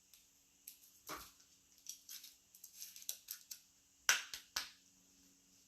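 Trading cards being handled at a table: a string of short, faint rustles and clicks, with a few sharper snaps about four seconds in.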